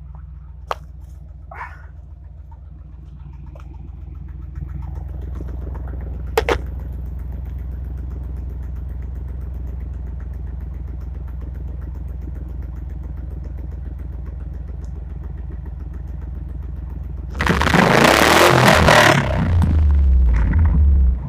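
1997 Ford Explorer's 5.0 V8 idling through dual Total Flow mini mufflers with a deep exhaust note, a few light clicks over it. About 17 seconds in it is revved hard and the exhaust turns much louder and rougher.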